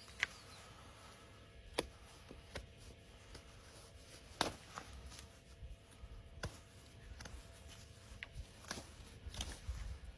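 Hoof nippers cutting through overgrown hoof wall: a series of sharp, irregular snips, several seconds apart, the loudest a little under halfway through.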